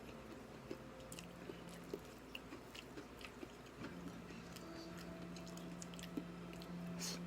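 A person chewing and biting food, a string of small irregular mouth clicks and light crunches, with a louder click about seven seconds in. A faint steady hum runs underneath.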